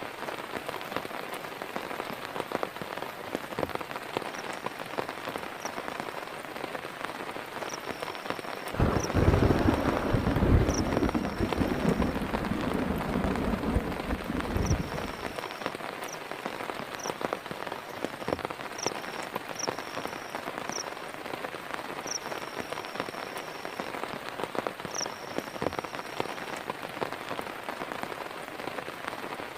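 Heavy rain falling steadily, with a roll of thunder rumbling low for about six seconds starting around nine seconds in. Short high chirps come and go over the rain.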